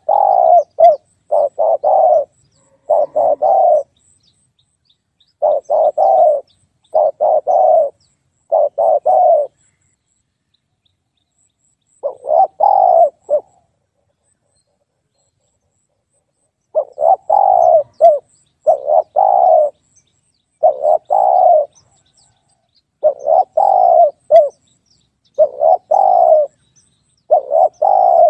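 Spotted dove cooing: repeated phrases of a few short, low coos, broken by pauses of one to three seconds of silence. It is used as a lure call for attracting spotted doves.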